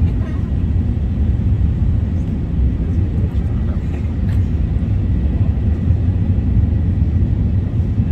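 Steady low rumble of an Airbus A380 heard from inside the passenger cabin.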